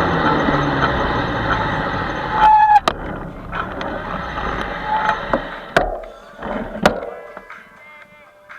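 Riding noise on an electric bike: a steady rush of wind and road noise, with a short tone about two and a half seconds in and a few sharp clicks. The noise dies down over the last few seconds.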